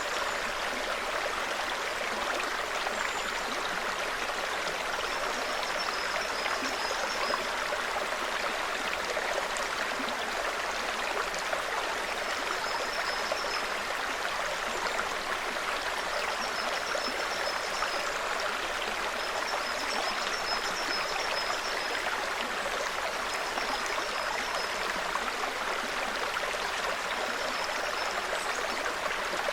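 A small mountain brook trickling steadily over stones, with short high-pitched bird chirps coming every few seconds over the water.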